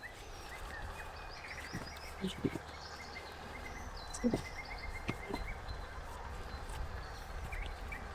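Outdoor ambience with small birds chirping now and then in short rising and falling notes, and a few soft knocks, the loudest about two and a half and four seconds in.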